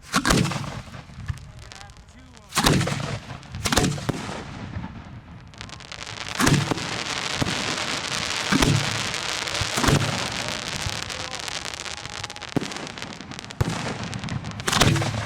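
Fireworks display heard from the firing site: about seven sharp bangs at uneven intervals. A dense hissing wash of firework noise builds about five seconds in and fades a little before the last bang near the end.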